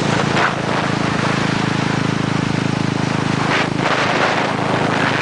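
Motorcycle engine running steadily at cruising speed under a loud rush of wind noise, with two brief swells in the rush, about half a second in and near four seconds in.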